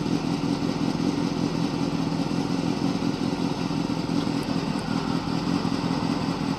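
Motorcycle engine idling steadily, running on its stand so the inspector can judge its noise by ear.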